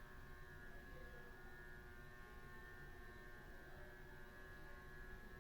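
Faint, steady electrical hum from a vintage Hampton Bay Southwind ceiling fan's small motor running very slowly with its dimmer turned all the way down.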